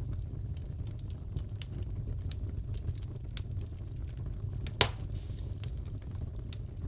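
Crackling fireplace: a steady low rumble of burning wood with scattered small snaps, and one louder pop about five seconds in.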